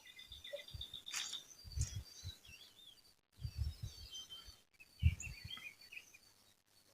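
Several small birds chirping, with a fast trill of high repeated notes in the first second and varied short calls after it. Low thumps come about two, three and a half, and five seconds in.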